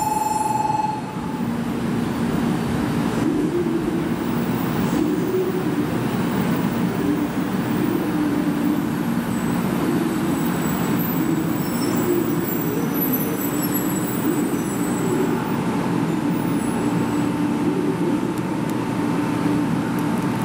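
500 series Shinkansen train at a platform, giving off a steady electrical hum with a wavering low drone. A high steady tone cuts off about a second in, and a fainter one returns in the second half.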